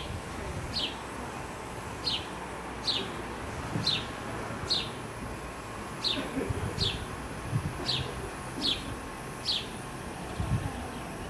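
A bird calling: a short, high chirp that falls in pitch, repeated about once a second and stopping shortly before the end. A few low thumps sit underneath.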